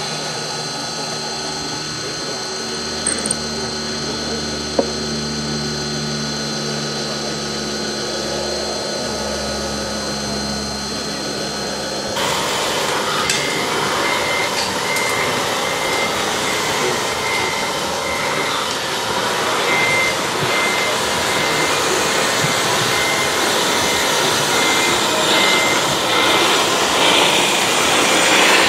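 Radio-controlled model Volvo excavator's motors running with a steady, layered whine and low hum. About twelve seconds in the sound changes abruptly to a denser whirring, with a high beep sounding on and off.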